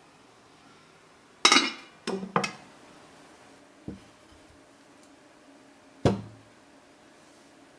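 Dishes and kitchenware being handled: a quick run of clinks and knocks about a second and a half in, a single small knock near four seconds, and another clink near six seconds.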